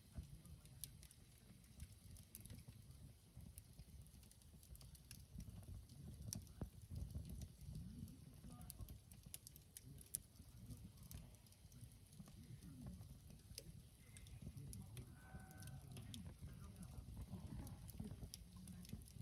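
Faint crackling of a wood campfire in a fire disk: scattered sharp pops and ticks over a low rumble. A brief faint pitched call or tone sounds about fifteen seconds in.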